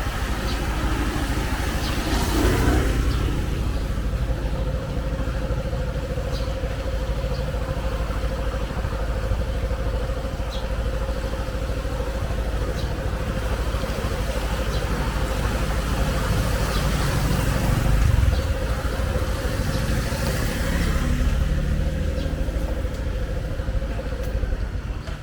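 Motor vehicles running in street traffic: a steady low rumble with a constant hum, swelling louder twice as vehicles pass.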